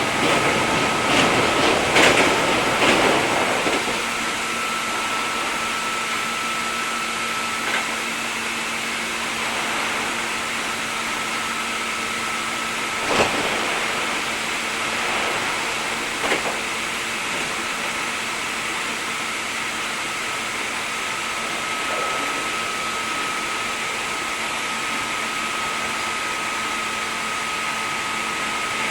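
Inside a Hankyu 3300-series train car with the train standing still: a steady hum of air conditioning and electrical equipment with a constant low tone and a higher whine that fades and returns. There are a few sharp clicks in the first few seconds and two brief knocks about 13 and 16 seconds in.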